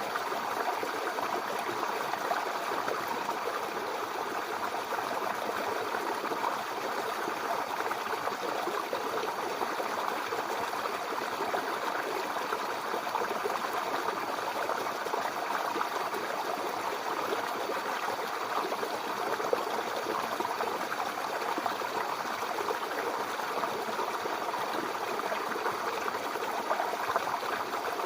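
Small brook babbling over stones: a steady, even rush of flowing water with fine trickling and gurgling.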